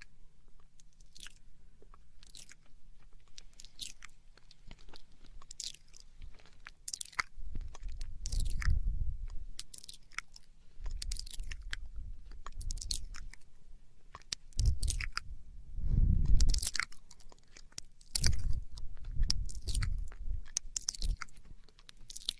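Close-miked ASMR mouth sounds: many short wet clicks and smacks of lips and tongue, coming irregularly. Several spells of louder, low muffled sound close against the microphone come in between them.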